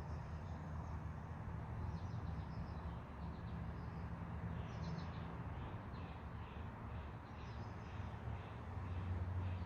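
Songbirds chirping in short bursts, a few times, over a steady low rumble and hiss of the storm's weather; the low rumble swells near the end.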